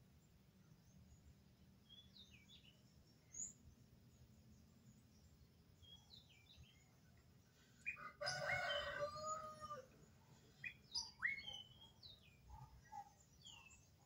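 Birds chirping in short scattered calls. About eight seconds in comes a much louder drawn-out call of nearly two seconds that drops in pitch at its end, followed by more chirps.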